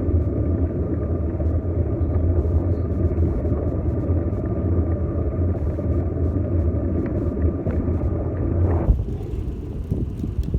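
Airplane engine droning overhead: a steady low rumble with a faint high whine over it, which stops abruptly about nine seconds in, leaving wind noise and light clicks.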